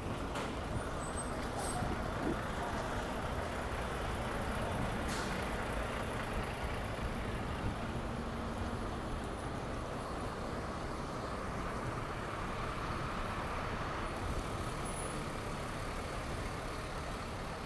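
Steady city street traffic noise: a continuous wash of passing cars and trucks.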